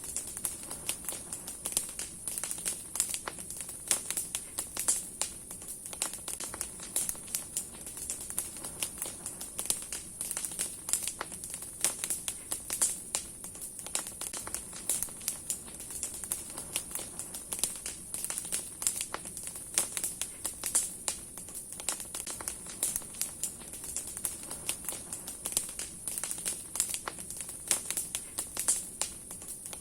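Large bonfire of burning branches and firewood crackling, with a dense, irregular stream of sharp pops and snaps over a steady high hiss.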